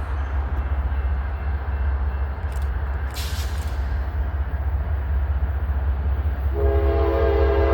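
Diesel-hauled intermodal freight train approaching with a steady low rumble; about six and a half seconds in, the locomotive's air horn starts a long, steady blast of several notes sounding together.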